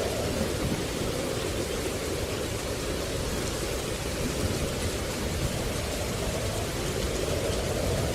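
Steady, even rushing noise from a nature-sounds recording, with no separate drops, calls or knocks standing out.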